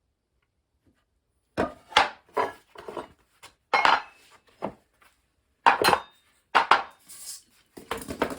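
Irregular knocks and clatters of wooden subfloor panels being handled and set down, starting about a second and a half in.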